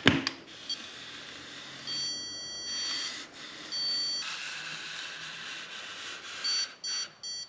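Electronic stud finder slid across a wall with a scraping rub, beeping high and electronic as it picks up a stud. There is one longer beep about two seconds in, another around four seconds, and a run of short beeps near the end.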